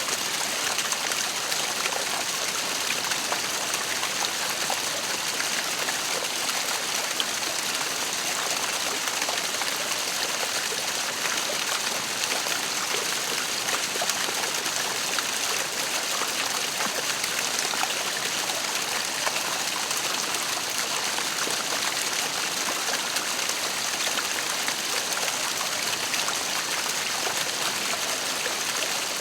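Waterfall: falling water splashing in a steady, unbroken hiss.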